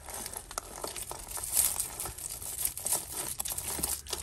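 Plastic bag crinkling as jewellery is handled and pulled out of it, with many small irregular clicks.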